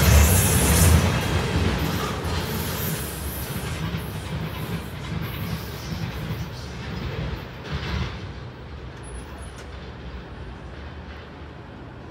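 Freight cars loaded with steel coils rolling past, wheels rumbling on the rails. The sound is loudest at first and fades steadily as the end of the train moves off down the line.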